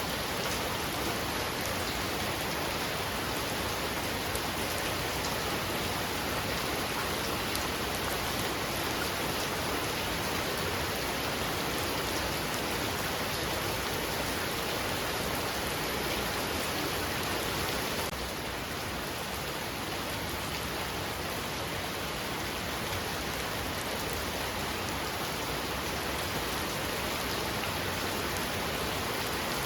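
Heavy rain falling steadily, a dense even hiss of drops on surfaces, easing slightly in level about two-thirds of the way through.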